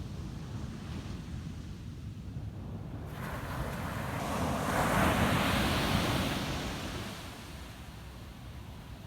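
Ocean surf on a beach: a wave breaks and washes in about three seconds in, swelling to its loudest around five to six seconds and dying away by about seven, over a steady low rumble of surf.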